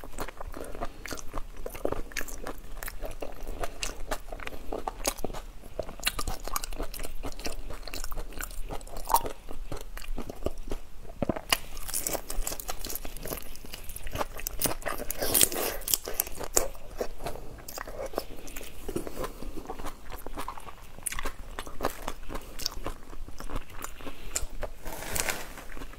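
Close-miked biting and chewing of a whole shrimp, with crisp crunches of the shell, at its busiest around the middle.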